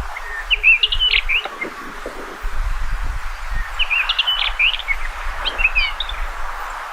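Common rock thrush (rufous-tailed rock thrush) singing: two short phrases of quick, warbled notes, one about half a second in and a longer one from about four seconds in, over a low rumble.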